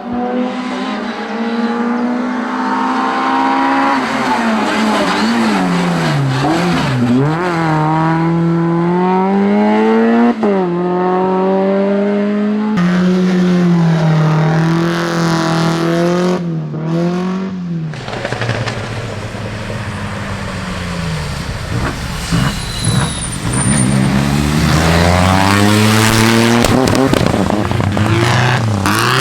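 Rally cars driving a stage one after another, engines revving hard: the pitch climbs under acceleration and drops sharply on lifts and downshifts into corners. There are abrupt changes about a third and two thirds of the way through, where one car gives way to the next.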